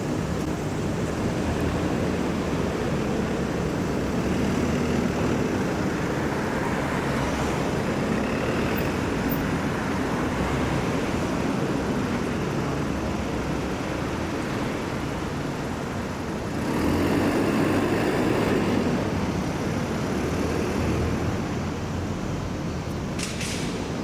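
Road traffic: a steady rumble of passing vehicles, swelling as one vehicle passes louder about two-thirds of the way in, with a few sharp clicks near the end.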